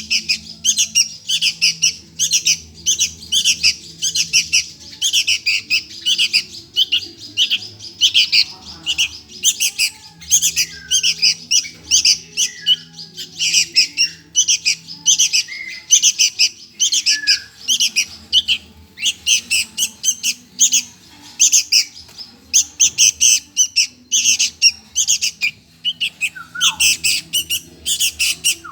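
Sooty-headed bulbul (kutilang) nestling begging for food: rapid, repeated harsh chirping calls, several a second, going on in clusters throughout.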